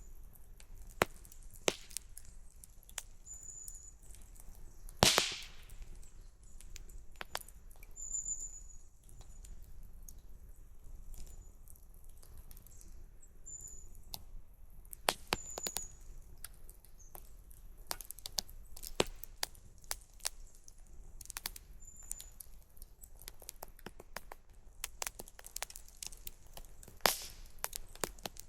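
Wood campfire crackling and popping in irregular sharp snaps, one louder pop about five seconds in. A bird gives short high chirps now and then in the background.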